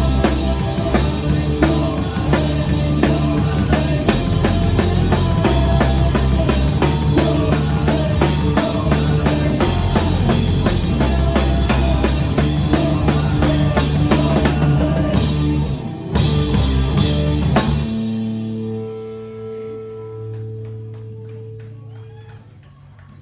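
Live rock band playing an instrumental passage with a driving drum kit, guitar and bass, then ending on a held chord that rings out and fades away over the last few seconds.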